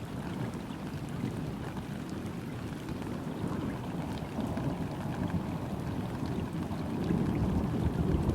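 Steady rain falling onto a river's surface: a dense patter of drops over flowing water. A low rumble swells up underneath about seven seconds in.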